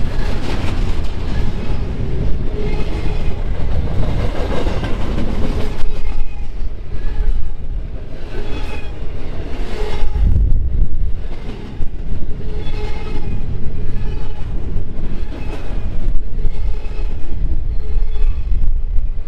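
Railroad cars rolling past close by: a steady heavy rumble of wheels on the rails with knocks over the joints, and a high ringing tone that swells and fades every couple of seconds.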